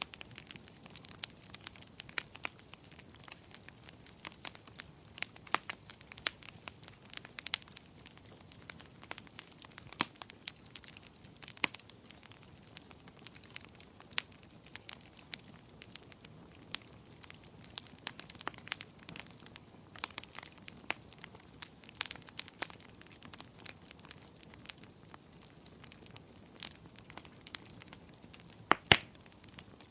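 Wood fire crackling, with irregular sharp pops and snaps over a soft hiss, and a louder double pop near the end.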